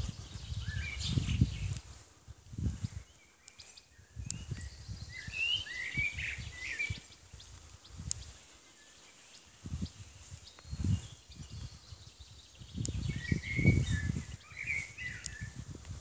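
Birds chirping in short, quick phrases, once a few seconds in and again near the end, over irregular low rumbling surges on the microphone.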